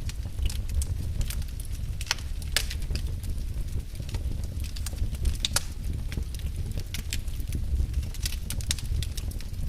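Wood fire burning in a fireplace: a steady low rumble of flame with irregular crackles and snaps of burning wood, several a second, and a few louder pops.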